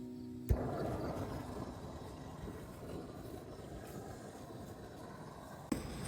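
Steady low noise of heavy rain and strong wind, starting after a click about half a second in and changing abruptly near the end. Guitar music ends in the first half-second.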